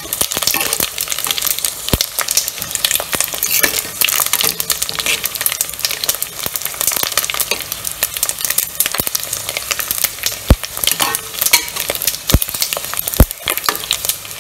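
Pork skin deep-frying in very hot oil in a metal pot: a dense, continuous crackle and sizzle as the pre-fried pieces puff up into chicharon. The pieces are stirred now and then, with a few louder sharp clicks at about 2, 10 and 12 to 13 seconds in.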